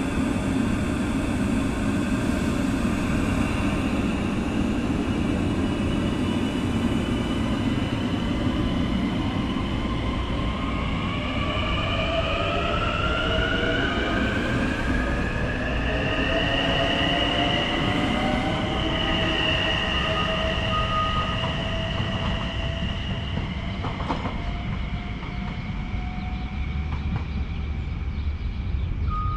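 Long Island Rail Road Kawasaki M9 electric multiple-unit train pulling out of the station. A steady low rumble of wheels on rails runs throughout. From about ten seconds in, a whine of several tones rises in pitch as the train accelerates, then levels off and fades as it moves away.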